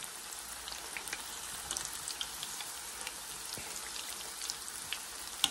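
Siomai dumplings pan-frying in hot oil: a steady sizzle with scattered small pops and crackles, and one sharper pop near the end.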